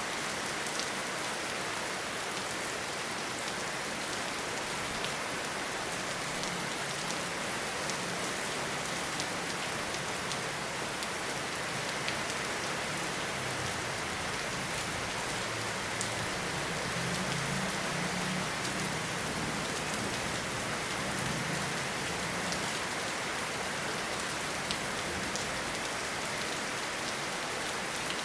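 Steady rainfall in a forest, an even hiss of rain on leaves and ground, with scattered sharper drop ticks. A soft low rumble rises and falls through the middle.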